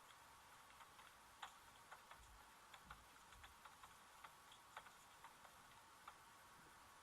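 Near silence with a faint hiss and a scattering of faint, irregular clicks and taps.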